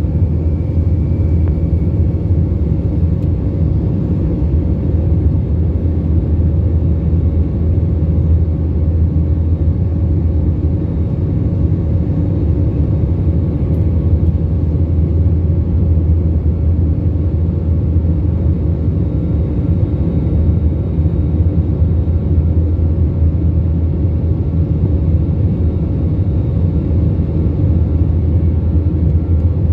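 Steady low rumble of engine and airflow noise inside a jet airliner's cabin, with a faint steady hum above it and no change in level.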